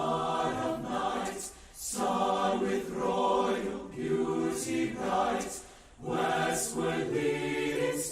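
Choir singing a Christmas carol in long sung phrases, with two brief breaths between phrases.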